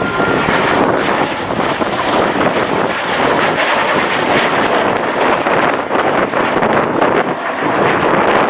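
Steady, loud rushing noise of aircraft engines, mixed with wind buffeting the microphone.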